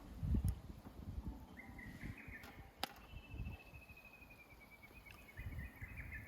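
Outdoor campsite ambience: low rumbles and thuds, a short chirp about two seconds in, and a sharp click just before the midpoint. A bird then gives a rapid trill of high notes that falls slightly in pitch for about two seconds.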